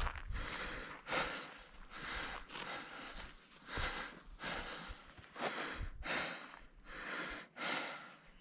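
A hiker breathing hard and fast, in and out roughly twice a second, while climbing a steep mountain trail.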